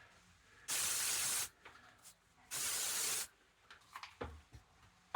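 Two short spritzes from a spray bottle, each a steady hiss lasting under a second, about a second apart. They are followed by a few faint knocks near the end.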